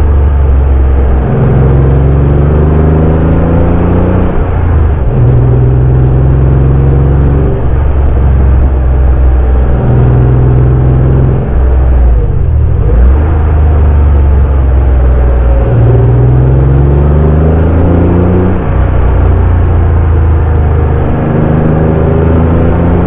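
Porsche 964's air-cooled flat-six pulling through the gears on the road, its note rising over a few seconds and dropping at each gear change, repeated several times.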